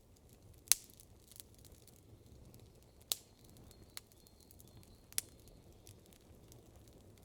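Wood campfire crackling: a few sharp, scattered pops from the burning wood, the loudest just under a second in, over a faint low background hiss.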